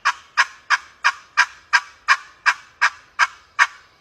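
Glass friction turkey call played as a loud yelp, a hen turkey's yelp imitated in an evenly spaced series of about eleven notes, roughly three a second, that ends just before the close. It is a locating call meant to carry about 300 yards and strike up a gobble from a bird ready to work.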